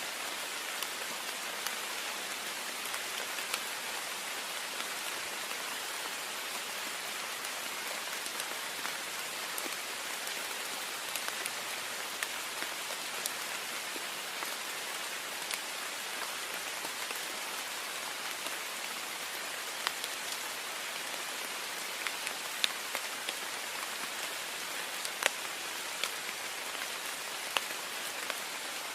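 Heavy rain falling steadily on a window, an even hiss with sharp individual drops ticking against the glass, a few louder ones scattered through.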